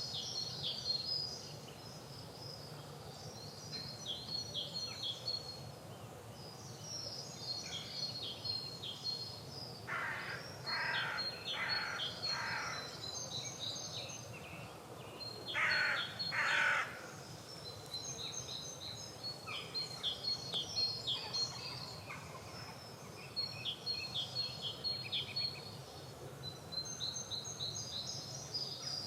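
Spring garden dawn-chorus-style birdsong: a songbird repeats short, high, chirping phrases over and over. About ten seconds in, a larger bird gives four harsh, lower calls in a row, then two more a few seconds later.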